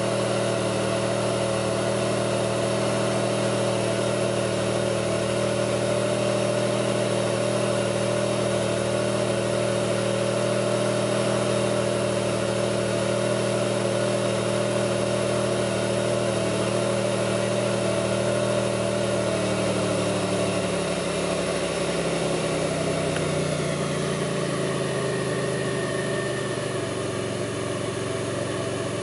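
2002 Pontiac Grand Prix's 3800 V6 idling steadily. About two-thirds of the way through, the engine speed sags and settles lower. This is the idle being pulled down, part of the rough, bogging idle the owner is investigating.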